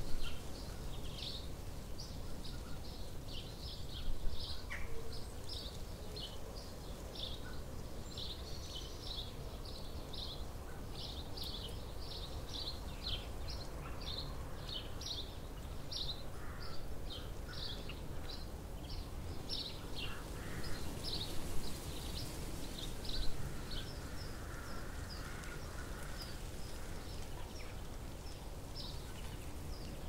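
Small birds chirping rapidly, several short high chirps a second almost without pause, over a steady low outdoor rumble.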